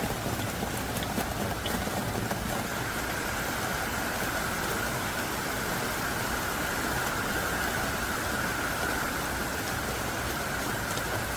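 Heavy rain pouring steadily, a dense even hiss with scattered drops ticking through it.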